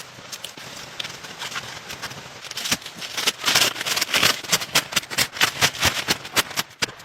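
A rapid series of sharp knocks, several a second, faint at first and growing loud about two and a half seconds in.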